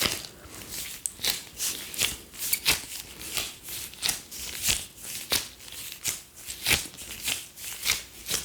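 ASMR gloves on hands rubbing and crinkling, a short hissing swish about every half second to second.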